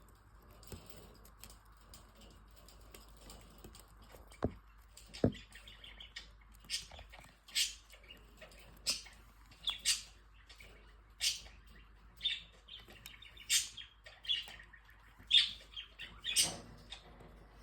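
A cockatiel chewing on a toy ball and chirping: short, sharp sounds roughly once a second from about six seconds in, a few much louder than the rest. Two low knocks come a little before them.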